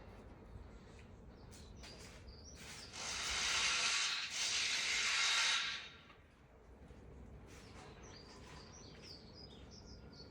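A hiss of water spray, likely from a pressure washer lance, that starts abruptly about three seconds in, runs for about three seconds with a brief dip partway, and cuts off suddenly. Faint bird chirps behind it.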